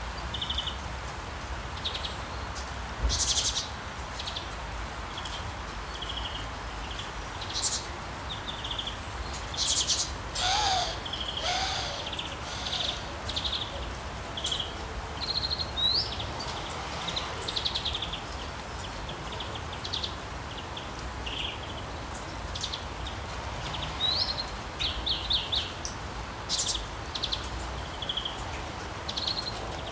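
Small birds chirping and trilling in many short, scattered calls over a steady background hiss, with a few lower, sliding calls about ten seconds in.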